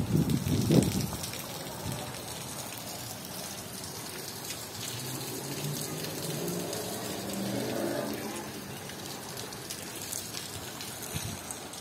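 Rain falling on a flooded street: a steady hiss of drops hitting standing water. Wind buffets the microphone in the first second, and a faint low hum swells in the middle.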